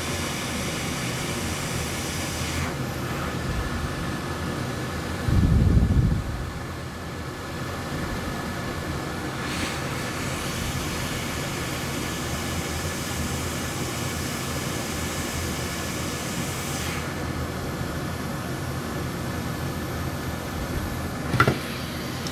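Steady whooshing air from a workbench blower fan, with a short, louder low thump about five seconds in.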